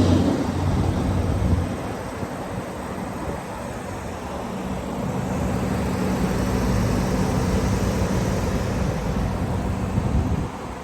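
A car running, a steady rumble with a low hum under it, that drops off suddenly shortly before the end.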